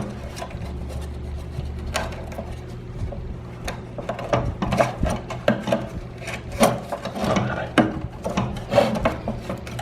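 The bearing of a mini-split blower wheel being worked by hand back into its seat on the housing: irregular scraping and rubbing with scattered short clicks and knocks.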